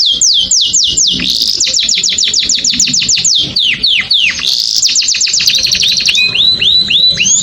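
Domestic canary singing: fast trains of repeated whistled notes, mostly quick downward sweeps several a second, switching about six seconds in to a different repeated rising-then-level note.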